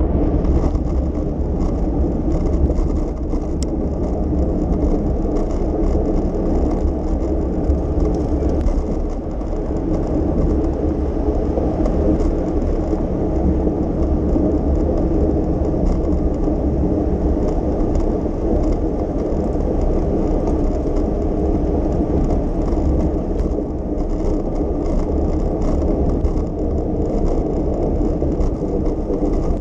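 Steady noisy rumble of a bicycle in motion: tyres rolling on the road and wind on the microphone, with light rattling.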